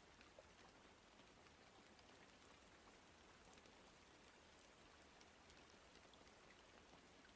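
Faint, steady rain with scattered ticks of single drops.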